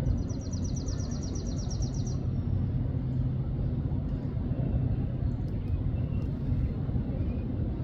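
A small songbird sings one rapid, dry trill of high repeated notes, about ten a second, lasting about two seconds, over a steady low rumble.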